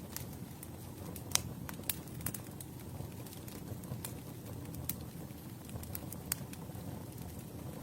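Campfire burning: a steady low rumble with scattered sharp crackles and pops, the loudest pop about a second and a half in.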